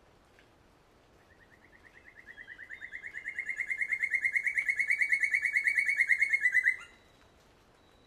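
A bird's long, fast trill of evenly spaced notes. It begins faintly about a second in, swells steadily louder and rises a little in pitch over about five seconds, then stops abruptly.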